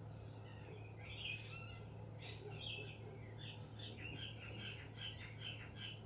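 Wild birds calling: scattered chirps and short calls, then a quick run of repeated notes, about five a second, in the second half.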